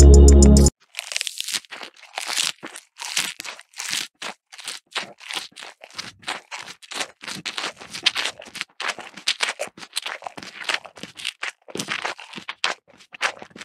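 Crisp crunching and munching of fresh grass stalks, like a cow chewing, in a quick irregular run of bites about two to three a second.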